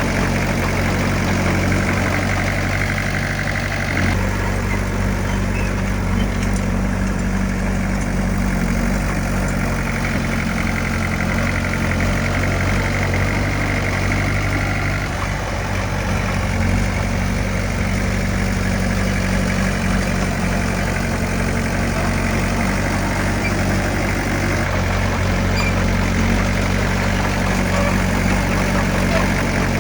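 Diesel engine of heavy earthmoving equipment running steadily at a constant speed, with a slight dip about halfway through.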